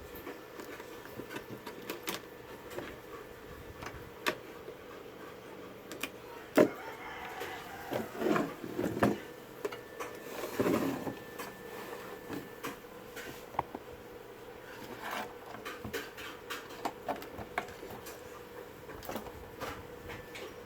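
Scattered clicks, taps and knocks from handling a CRT television and tools during repair, with a louder stretch of scraping and rustling about seven to eleven seconds in, over a faint steady hum.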